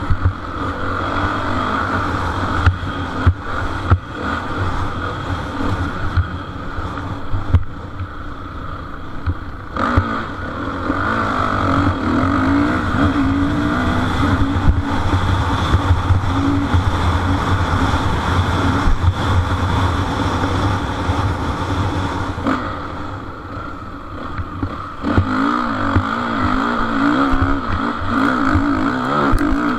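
Motocross motorcycle engines racing, revving up and down rapidly in wavering pitch as the riders work the throttle; the engines are loudest in two stretches, easing for a moment a little past the middle.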